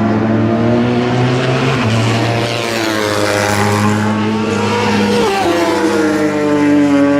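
Several superbike racing motorcycle engines running hard at high revs, their overlapping pitches rising and falling as the bikes shift, brake and accelerate.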